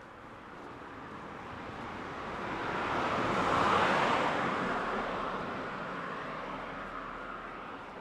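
A car driving past, its noise swelling to a peak about four seconds in and then fading away.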